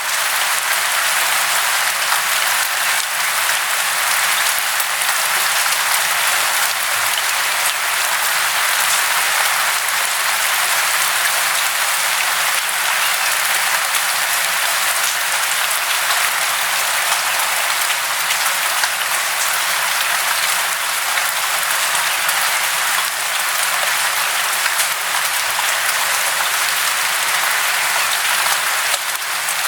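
Steady, even hiss of falling or rushing water, such as rain or a waterfall, with almost no low rumble.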